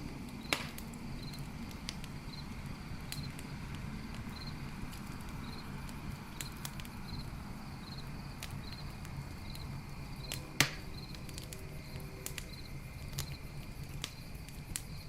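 Campfire crackling with scattered sharp pops, a louder one about half a second in and the loudest about two-thirds of the way through. Crickets chirp in a steady, even rhythm behind it.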